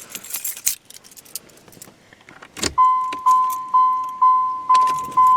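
Car keys jangling and clicking, then a knock, after which the car's dashboard warning chime begins, a single-pitched tone repeating about twice a second. This is typical of the key being put in and turned to on with the door open.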